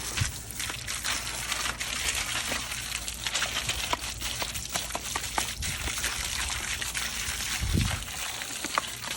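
Water spraying from a garden hose, a steady hiss broken by many small irregular splashes as the stream is hit and scattered. A brief low rumble comes a little before the end.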